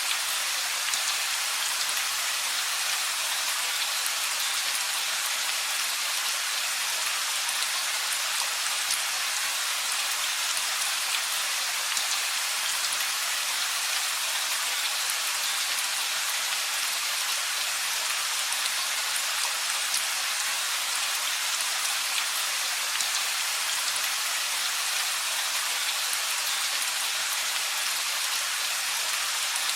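Steady rain falling, an even hiss with fine pattering drops throughout, no thunder.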